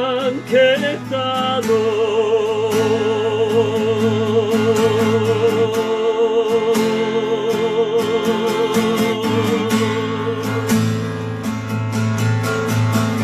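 A solo voice sings the closing words of a song and holds the last note for about nine seconds with a wavering vibrato. It is accompanied by steady guitar strumming, which carries on alone after the note ends near the end.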